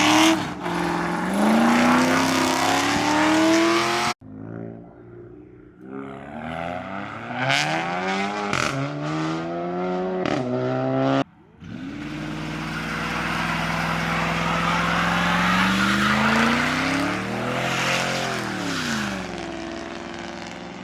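Car engines revving hard at a burnout, their pitch climbing and falling again and again, with a noisy hiss of spinning tyres over them. The sound cuts off abruptly twice, about 4 and 11 seconds in, as separate clips join.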